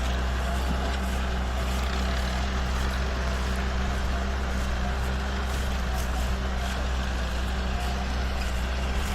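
Farm tractor's diesel engine running steadily under load, pulling a four-disc chopping harrow through sugarcane leaves.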